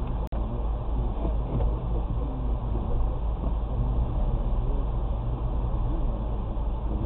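Steady low rumble of a car on the move, with a brief dropout about a third of a second in.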